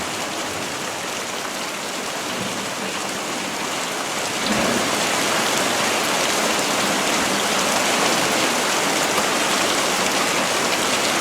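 Steady monsoon rain falling, a little louder from about four and a half seconds in.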